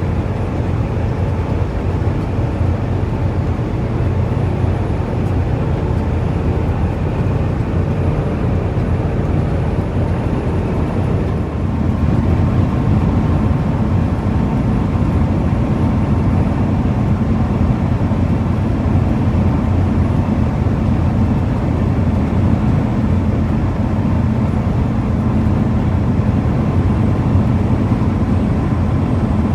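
Semi truck's diesel engine and road noise heard inside the cab while driving at speed, steady, growing a little louder about twelve seconds in.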